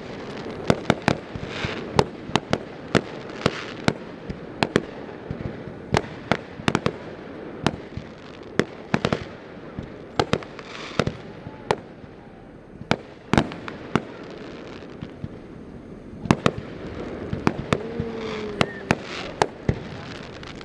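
Fireworks display: aerial shells bursting in quick, irregular succession, sharp bangs several a second at times, with a rumble of crackle and echo between them. The bangs thin out for a moment a little past the middle, then pick up again.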